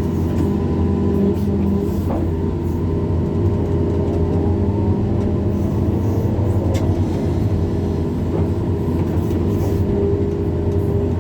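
Hydraulic excavator's diesel engine running steadily at working revs, with a faint shifting whine and a couple of sharp knocks about two and seven seconds in.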